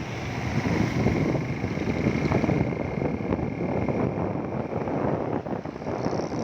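Wind buffeting the microphone on a moving motorcycle, a steady rushing noise over the running of the bike.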